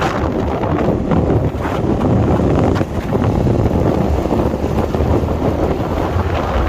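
Wind buffeting the microphone on a moving motorcycle: a loud, steady rushing roar, heaviest in the low end.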